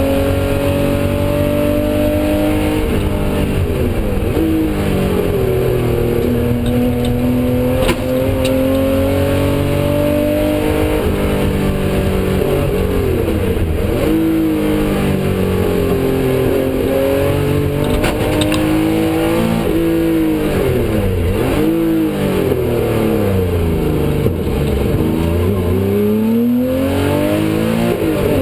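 Porsche 911 rally car's air-cooled flat-six engine, a 350 bhp Tuthill build, driven hard through a stage. The revs climb and drop again and again, heard from inside the cabin.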